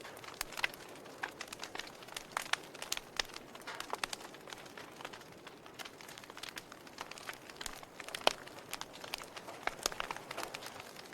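Log fire crackling: irregular sharp pops and snaps from the burning wood over a soft hiss, the loudest snap a little past 8 seconds in.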